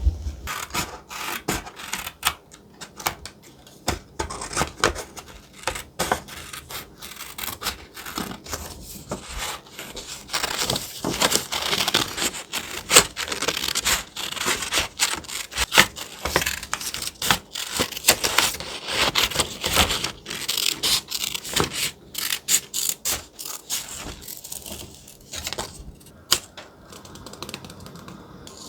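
Close-miked thick paper being handled and rubbed, with many small crisp taps and crinkles; busiest in the middle and thinning out near the end.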